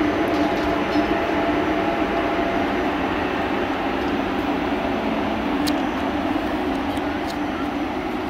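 A train running past: steady rail noise with a low hum, easing off slowly toward the end, and two faint clicks in the second half.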